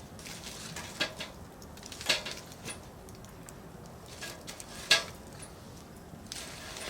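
Firewood burning in a fire pit, crackling with sharp pops over a faint steady hiss; the loudest pop comes about five seconds in, with smaller ones about one and two seconds in.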